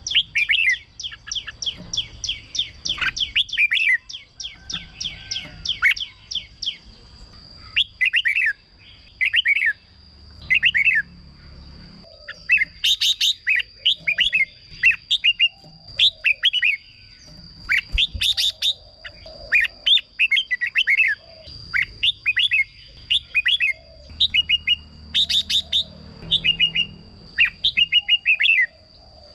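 Red-whiskered bulbul singing: a quick run of short chirping notes at first, then bright, quickly gliding phrases repeated every second or so. A faint steady high tone runs behind the song.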